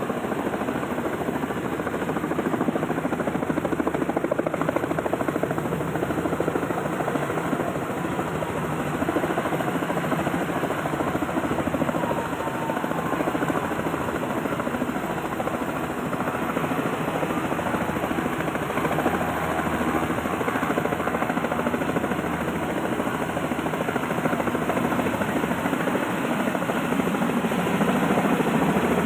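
Helicopter running: steady rotor and engine noise that grows a little louder near the end.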